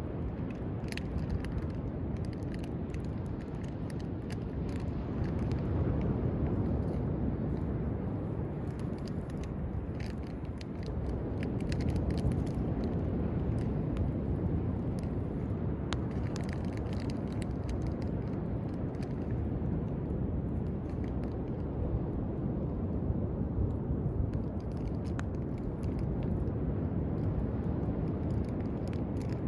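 Driftwood campfire crackling with scattered sharp pops over a steady low rush of surf that swells and eases every few seconds.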